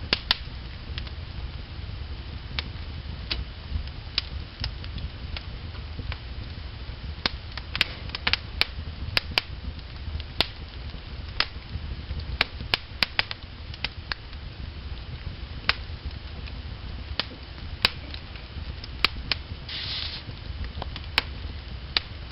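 Burning logs in a wood fire crackling: irregular sharp pops and snaps, some a few per second, over a low steady rumble, with a short hiss about 20 seconds in.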